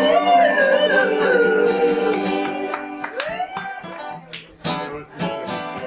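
Live band music: a sung note held and wavering for about two and a half seconds at the end of a song, then a few short strummed guitar chords.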